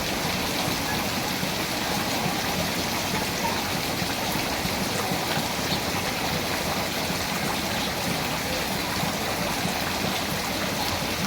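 Steady heavy rain pouring down, an even hiss of water with faint scattered drop ticks.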